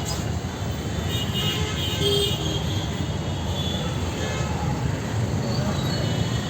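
Busy street traffic ambience: a steady rumble of vehicles, with thin high squealing tones that come and go.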